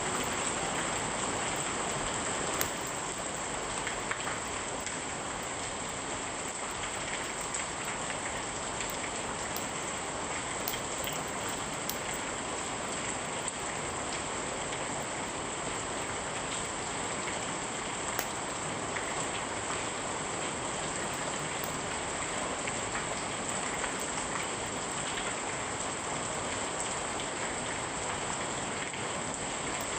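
Steady, even rain falling and pattering on surfaces, with a few sharp ticks scattered through it, one about two and a half seconds in and another about eighteen seconds in.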